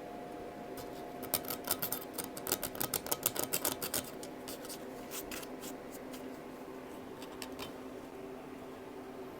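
A quick, irregular run of sharp clicks lasting about three seconds, over a steady hum.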